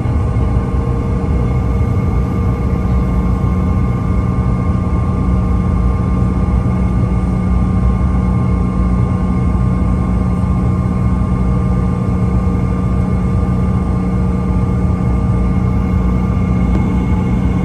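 Steady low rumble and even hum inside an airliner cabin on the ground after landing, with a few constant whining tones from the aircraft's running machinery.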